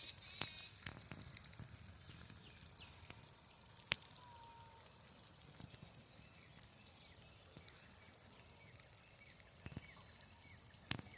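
Drip irrigation water hissing and dripping faintly and steadily, with a few sharp ticks of drops.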